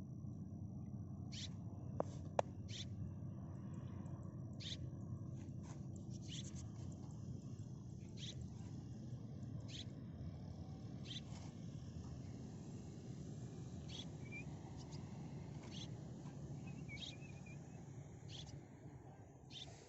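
Swallows giving short high chirps every second or two over a faint steady low rumble, with two sharp clicks about two seconds in.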